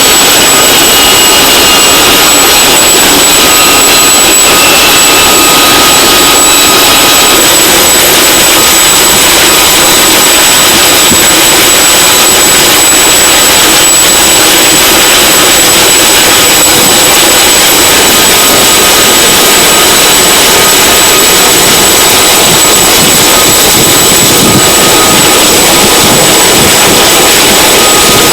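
CH-47 Chinook helicopter's turbine engines and rotors running, a very loud, steady rush of noise without letup.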